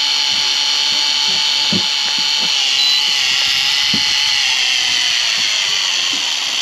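Electric fishing reel's motor whining steadily as it winds line in under the weight of a fish. Its pitch sags slowly through the second half and it eases off near the end.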